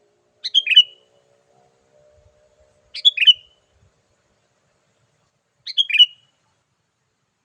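Sooty-headed bulbul song: a short, bubbly phrase given three times at even intervals, each phrase alike, as from a looped call used to lure wild bulbuls.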